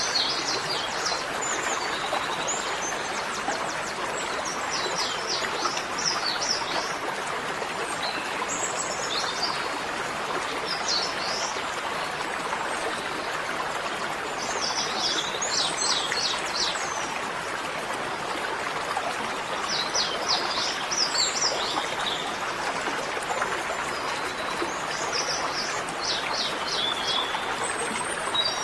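Steady rushing of flowing water, with a bird singing a short phrase of rapid high chirps that recurs about every five seconds.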